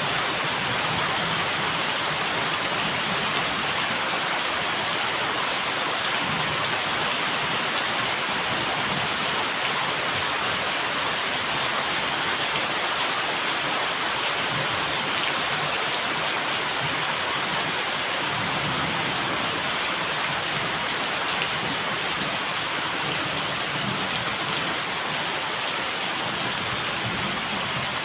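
Steady rain falling in a constant, even hiss.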